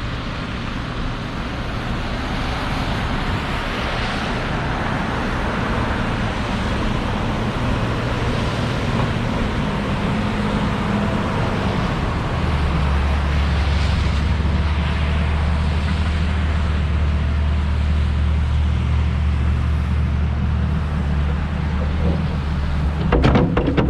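Chevrolet Silverado 2500HD's Duramax turbo-diesel running steadily, with a low hum that grows stronger about halfway through. A brief clatter comes near the end.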